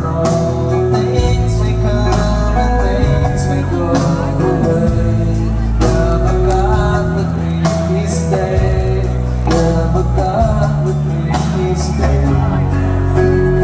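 Live band playing a song with a man singing the lead vocal over steady bass notes and drum and cymbal hits.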